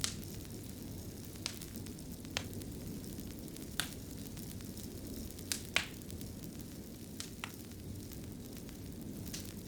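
Wood fire crackling in a fireplace: a steady low rumble and hiss of burning logs with sharp pops and snaps at irregular intervals, the loudest a double pop just before the six-second mark.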